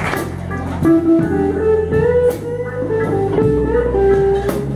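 Blues played on guitar: a single-note lead line over a steady bass, with a few cymbal strikes.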